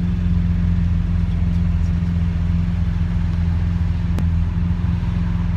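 Lamborghini Aventador SV's V12 engine running steadily at cruise, heard from inside the cabin as a low, even drone with road noise. A single faint click about four seconds in.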